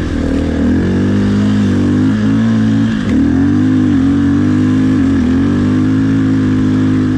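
Dirt bike engine running under load, its revs holding fairly steady and dropping briefly about three seconds in and again about five seconds in.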